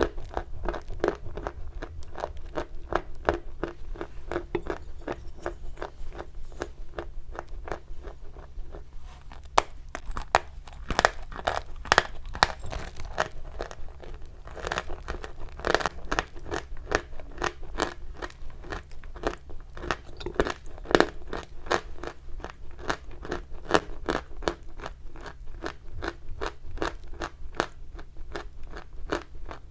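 Chalk being crunched, a close, continuous run of dry crackles several times a second, with a few louder sharp snaps around the middle.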